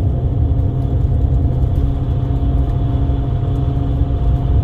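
Steady low rumble of a moving road vehicle, with a faint steady hum above it.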